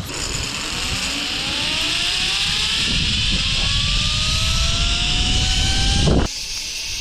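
A vehicle engine accelerating, its pitch rising steadily over several seconds over a hiss of road and wind noise. It cuts off abruptly about six seconds in.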